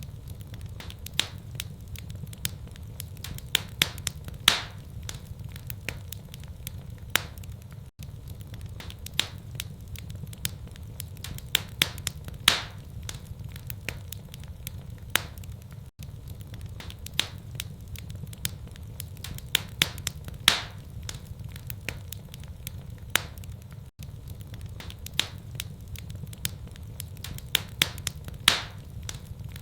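Wood fire crackling in a fireplace: irregular sharp pops and snaps over a steady low rumble. The same eight-second stretch repeats as a loop.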